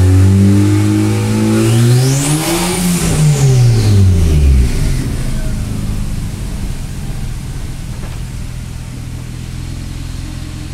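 Turbocharged Honda Accord engine revving in gear with the drive wheels spinning off the ground, the first run through the gears after a new clutch install. It climbs to a peak about three seconds in, with a high whine rising and falling along with it, then drops back by about five seconds to a steadier, lower running.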